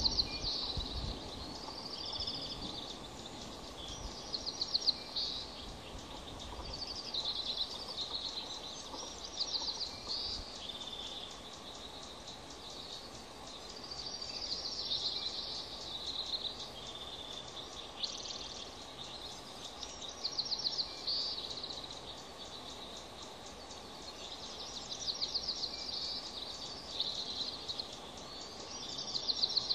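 A bird singing short, high, trilled phrases again and again, one every two or three seconds, over a steady low background hiss.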